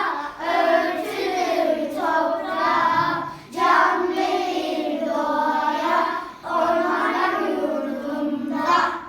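Children singing a song in long phrases with short breaths between them, stopping abruptly near the end.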